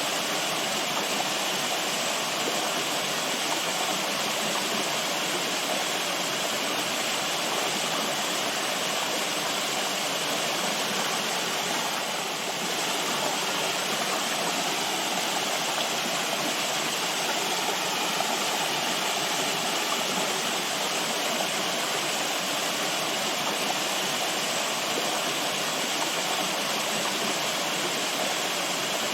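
Running water rushing steadily, as from a stream or small waterfall, with no let-up.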